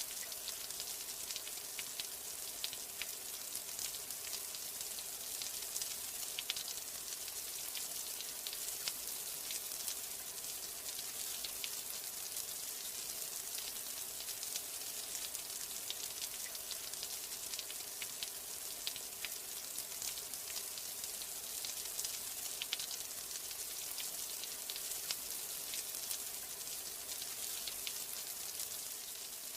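Steady rain falling: an even hiss with many small ticks of individual drops.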